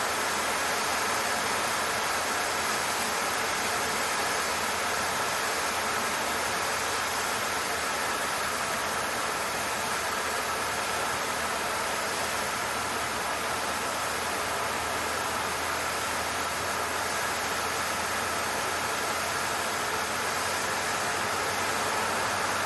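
Steady cockpit noise of a Cessna 152's four-cylinder Lycoming engine running at constant power in flight, heard as an even hiss-like drone.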